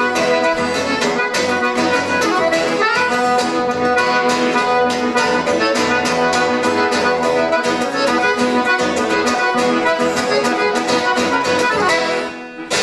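Accordion playing an instrumental passage of a sertanejo/caipira song over a steady beat, pausing briefly near the end.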